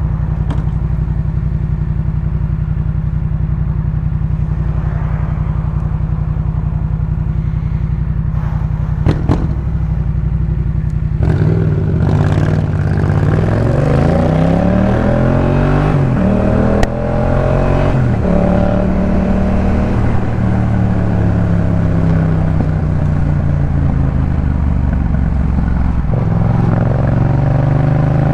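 Yamaha MT-07's parallel-twin engine through a Jeskap K4 full aftermarket exhaust, idling steadily, with a few sharp clicks shortly before it pulls away. About eleven seconds in it accelerates, the pitch rising and dropping repeatedly as it shifts up through the gears.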